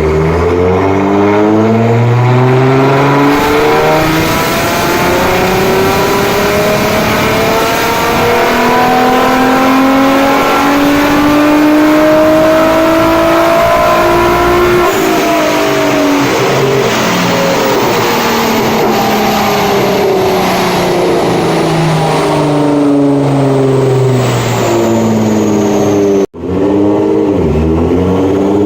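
Nissan GT-R R35's twin-turbo 3.8-litre V6, with catless downpipes and a straight-pipe exhaust, under load on a dyno. Its pitch climbs steadily through a long pull of about fourteen seconds, then falls away as it winds down. The sound cuts out for a moment near the end.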